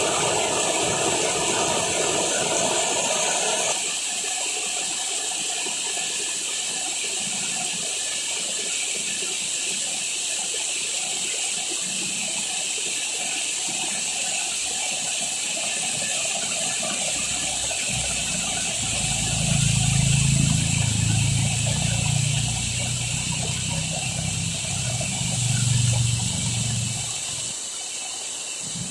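Heavy tropical rain falling steadily, with water gushing for the first few seconds. A low hum swells in about two-thirds of the way through and fades near the end.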